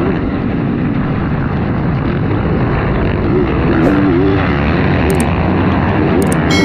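Several racing motocross bike engines running hard, their pitch rising and falling as the riders rev on and off the throttle, with a few brief sharp clicks.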